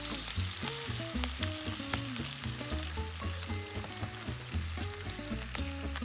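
Food frying and sizzling in a hot pan, with scattered small clicks, under background music with a moving melody and bass.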